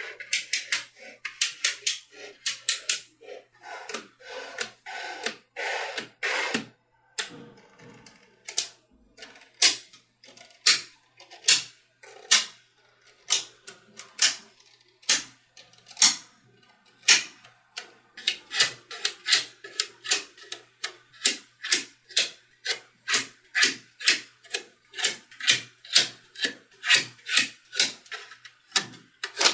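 Small magnetic balls snapping together one after another in sharp clicks, about one or two a second, with a few quicker clusters.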